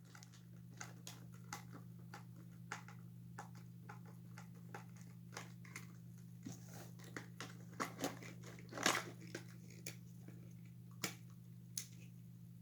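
Screwdriver turning out small screws from a toy's plastic body: irregular light clicks and scrapes, a few louder near the end, over a steady low hum.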